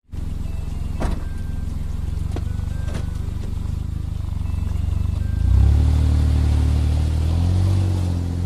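Suzuki Jimny JB23's small three-cylinder turbo engine running with a deep, steady drone, with a few sharp knocks in the first three seconds. About five and a half seconds in, the engine note rises and gets louder, as under more throttle, and holds there.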